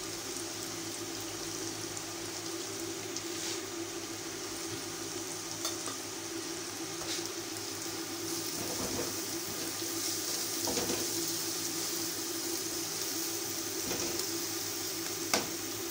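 Tomato-and-spice masala sizzling steadily in hot oil in a wok as it is fried down (bhuna). In the second half a silicone spatula stirs and scrapes it around the pan, with one sharp tap near the end.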